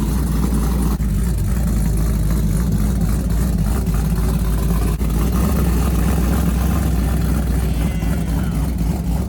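Car engine running steadily with a deep, low rumble.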